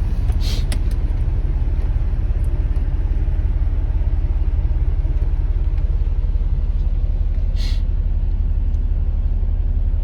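Infiniti G35's 3.5-litre V6, fitted with test pipes in place of the catalytic converters, idling with a steady, even low rumble. Two brief higher-pitched noises break in, one near the start and one about three quarters of the way through.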